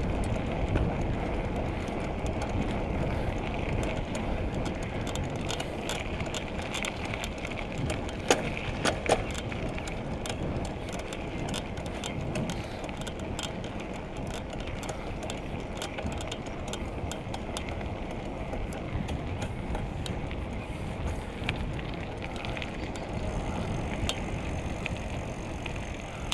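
Bicycle ride noise: wind rumbling over the microphone and tyres rolling on the road, with many small clicks and rattles. Two sharper knocks come about eight and nine seconds in.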